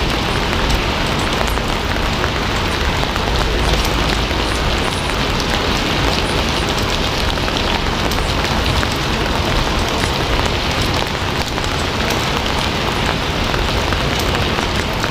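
Steady, loud rain falling on a surface: an even hiss spread with the fine patter of countless drops.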